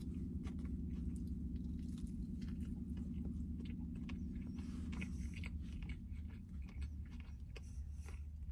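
A person chewing a mouthful of cheeseburger with the mouth closed, soft small clicks and smacks, over a low steady hum that drops away about five seconds in.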